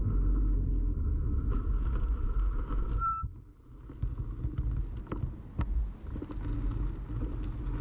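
Rumble and rattle of a bicycle ride, picked up through a camera fixed to the bike frame, with a thin high tone over it. About three seconds in comes a short squeal and the rumble drops away for under a second. It then resumes with sharp clicks and rattles.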